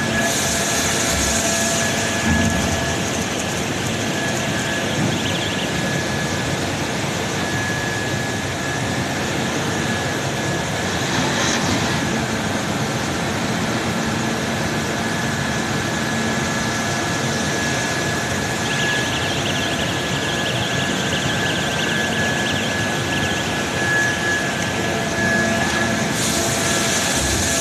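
Steady machinery noise with several constant whining tones running through it and no breaks.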